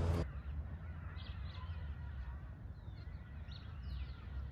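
Scattered short, high bird chirps and peeps over a low steady rumble.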